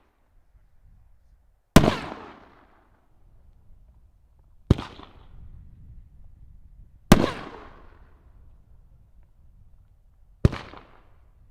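Aerial firework shells from a 3-inch nine-on-a-board rack going off one after another: four sharp bangs a few seconds apart, each trailing off in a long rolling echo.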